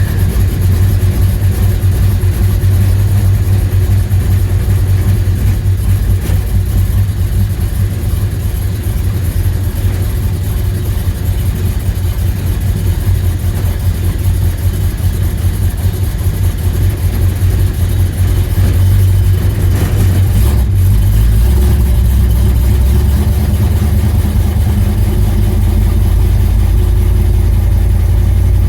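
1978 Ford Bronco's V8 engine with Holley Sniper throttle-body fuel injection idling right after a cold start below zero, a steady low rumble. About twenty seconds in, the idle note drops lower and evens out.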